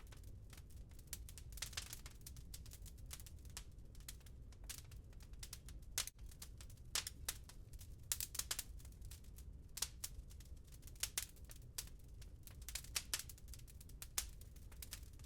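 Wood log fire crackling in a fireplace: irregular sharp pops and snaps, a few of them louder, over a low steady rumble of the flames.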